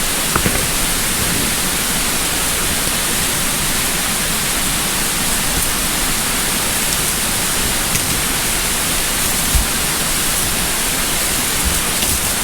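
Steady rushing of water from a nearby creek or waterfall, an even, loud hiss. A single brief low thump comes about three-quarters of the way through.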